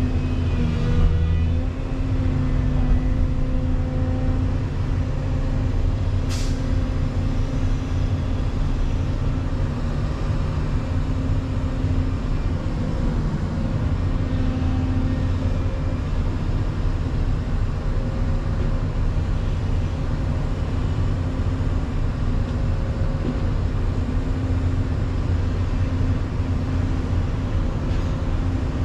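Volvo EC220EL excavator's diesel engine running steadily at working speed, with one brief sharp sound about six seconds in.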